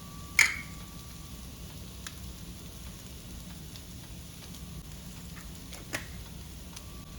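A sharp knock or clink of hard objects about half a second in, with a short ring, and a smaller one near six seconds, over a steady low hum.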